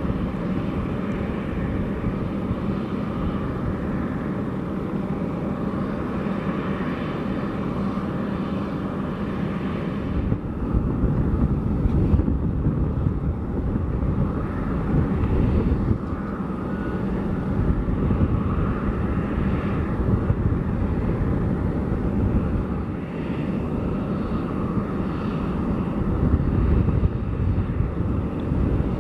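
Boeing 757-200's twin jet engines running on the ground, the noise swelling and easing several times as thrust is added, consistent with the crew powering up to break the jet free after it got stuck on ice.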